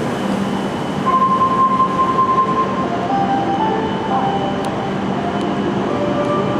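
Hokuriku Shinkansen E7/W7-series train at the station platform: steady running noise with a low hum and a high whine, and short whining tones that shift in pitch from about a second in.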